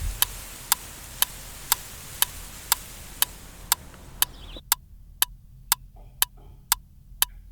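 Leaves rustling: a steady, soft hiss that stops suddenly about four and a half seconds in. Sharp ticks about twice a second run through it.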